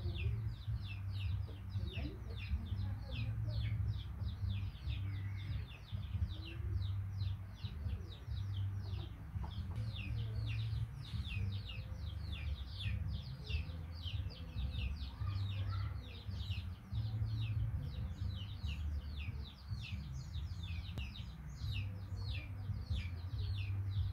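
Birds chirping rapidly and continuously, several high chirps a second, each falling in pitch, over a steady low rumble.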